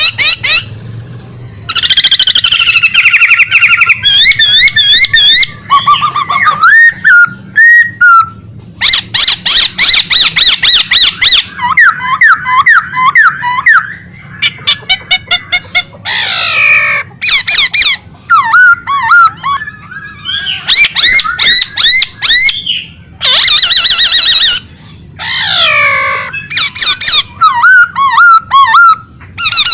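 A songbird in full, nonstop song: loud, varied phrases of whistles, fast trills and rapidly repeated notes, broken by short pauses.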